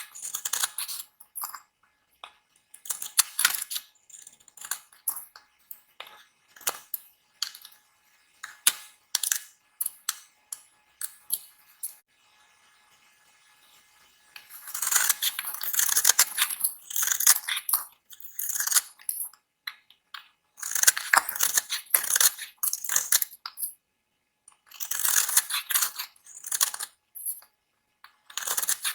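A knife cutting into dry bar soap, making crisp, crunchy scraping crackles in short strokes and clusters, with a brief lull about halfway through.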